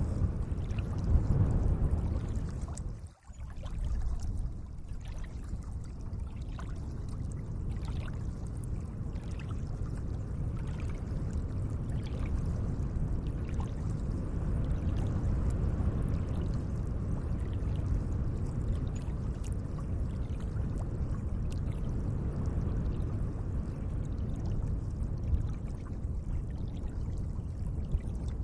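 Gentle water ambience: a steady rush of moving water with small splashes, which drops out for a moment about three seconds in before carrying on.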